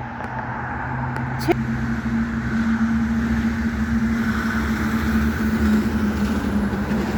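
A motor vehicle's engine running steadily, growing louder over the first few seconds and then holding level. A single sharp click comes about a second and a half in.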